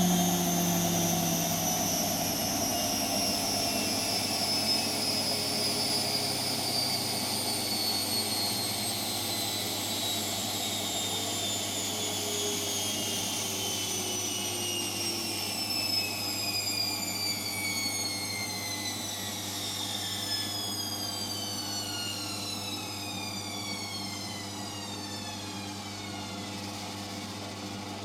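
Hotpoint washing machine's drum motor winding down from a high-speed spin: a whine with several tones that falls slowly and steadily in pitch while the machine grows gradually quieter, as the drum decelerates at the end of the spin.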